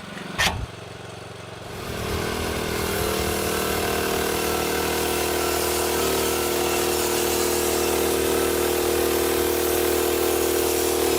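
Norwood Frontier OS-27 portable band sawmill running, its 13-horsepower Briggs engine rising to a steady speed about two seconds in and holding there, after a single click near the start.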